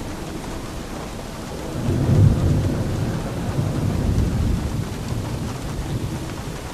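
Steady rain falling, with a low rumble of thunder that swells about two seconds in and rolls away over the next three seconds.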